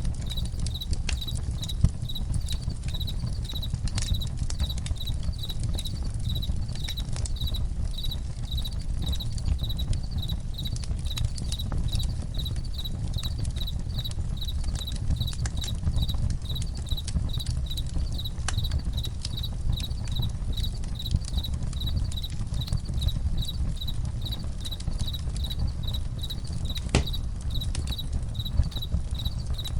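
A crackling campfire, with scattered sharp pops over a low rumble, and crickets chirping in a steady, evenly spaced rhythm.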